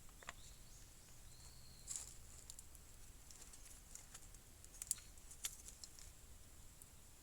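Faint, scattered light clicks and ticks at an irregular pace, with a sharper snap about five seconds in.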